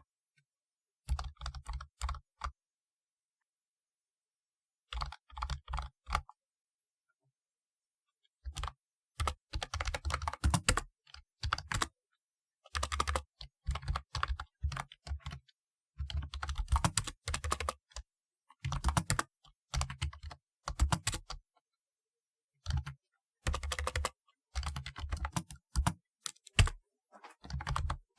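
Typewriter-style keyboard being typed on: runs of keystroke clicks, each with a low thud, broken by pauses of a second or two.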